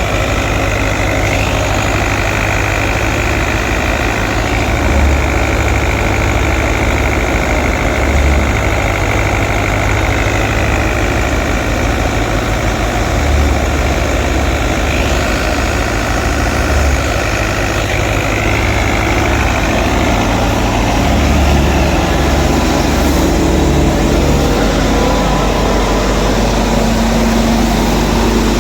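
Fiat 640 tractor's four-cylinder diesel engine running steadily, driving a wheat thresher, with a high whine from the working machinery that dips and shifts in pitch a few times.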